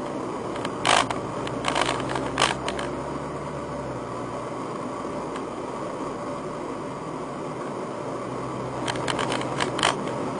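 Nissan R35 GT-R heard from inside the cabin while driving: a steady engine and road drone with a low hum, and a few short clicks about a second in and again near the end. There is no trace of the abnormal noise the owner had been chasing.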